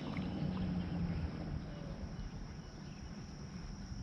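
Quiet summer pond ambience: a steady high insect drone, as of crickets, over a low rumble.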